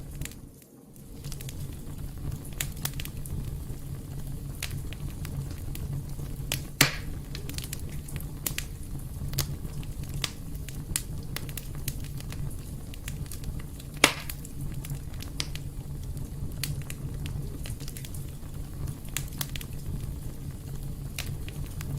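Wood fire crackling in a fireplace: a steady low rumble under many small snaps, with two louder pops, about seven and fourteen seconds in. The level dips briefly just under a second in.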